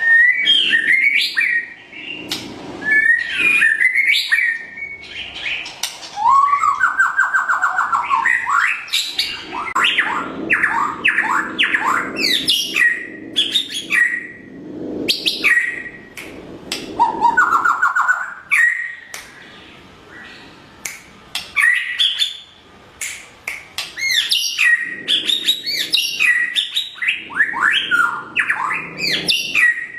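White-rumped shama singing: fast runs of loud whistled notes, quick rising and falling phrases and rapid trills, broken by short pauses.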